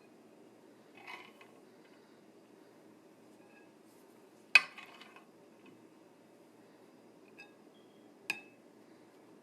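Spoon and dishes clinking: a soft clatter, then two sharp metallic clinks, the loudest about halfway through and another near the end, over a low steady hum.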